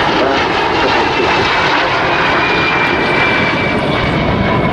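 De Havilland Vampire jets flying past, their Goblin turbojets giving a steady loud rush with a faint high whine that slowly falls in pitch.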